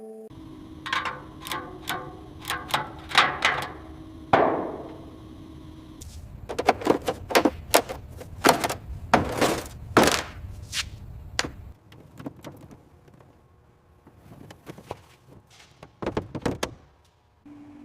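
A series of irregular knocks and thuds, many in quick succession, over a low steady hum that stops about six seconds in; the knocks thin out and grow quieter after about twelve seconds.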